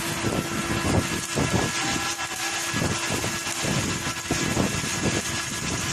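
Arc welding on steel pipe: a constant crackling hiss from the arc, over the steady hum of a running machine, with irregular low thumps.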